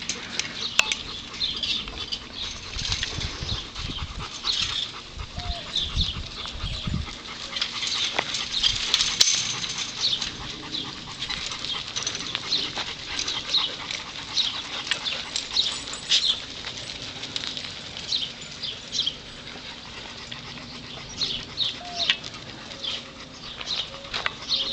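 A group of dogs moving about, with many short high-pitched sounds scattered throughout and a few low thumps a few seconds in.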